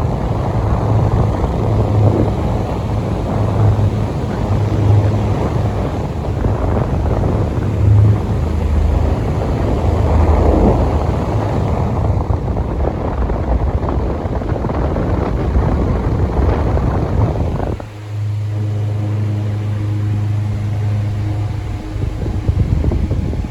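Delta Gold 50 cm electric fan running, its airflow buffeting the microphone with a steady rumble. About 18 seconds in the wind rumble drops away and a steady motor hum comes through.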